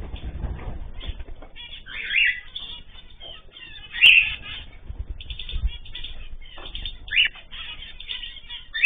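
Caged pet birds chirping and calling, with a few louder calls standing out about two, four and seven seconds in, amid wing flutters.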